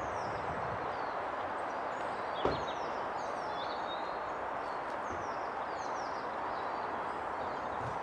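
Outdoor ambience: a steady rushing background noise with small birds chirping repeatedly over it, and one short knock about two and a half seconds in.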